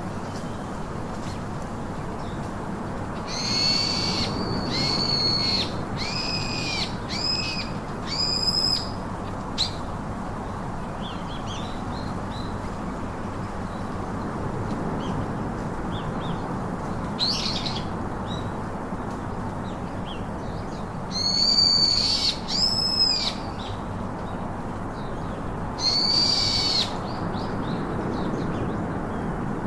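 A bird giving short, high, arching calls in runs of several, with pauses of a few seconds between runs, over a steady background hiss.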